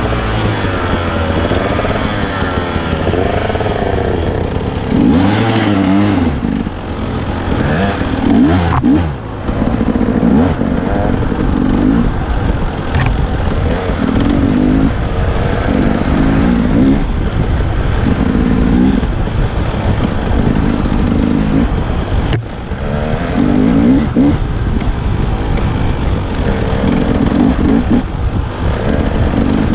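Dirt bike engine revving up and down again and again, its pitch rising and falling every second or two as the throttle is opened and closed.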